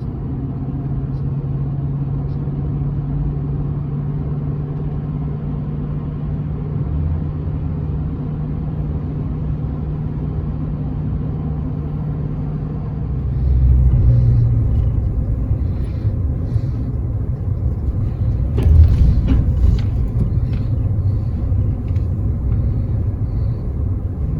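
Truck driving: steady engine and road rumble with a low hum, growing louder about halfway through, with a few clicks and knocks near the end.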